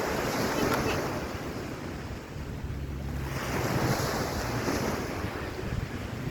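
Sea waves washing onto a sandy beach, the surf rising and falling in two swells, with wind buffeting the microphone and adding a low rumble.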